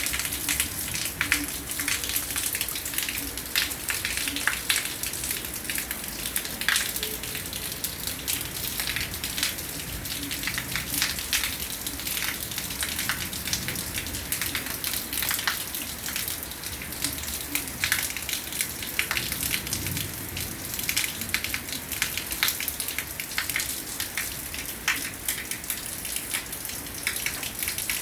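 Heavy rain falling steadily, with a continuous hiss and many separate sharp drop hits close by.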